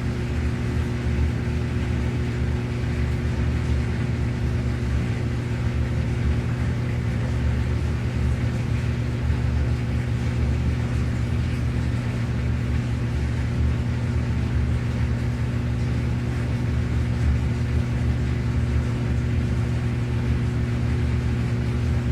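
Old-style washing machine running: a steady electric motor hum over an uneven low rumble.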